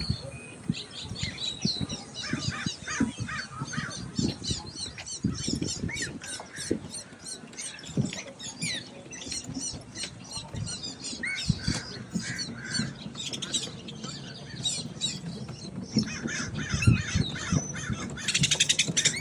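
Many birds chirping and calling over one another in short, high calls, with a dense, rapid run of calls near the end. Scattered low thumps sit beneath them.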